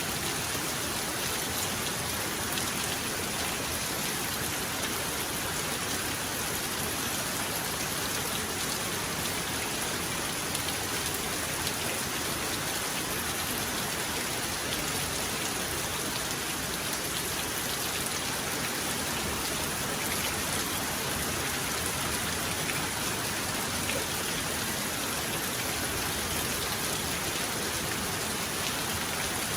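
Heavy rain falling steadily, with the patter of individual drops striking a surface; no thunder.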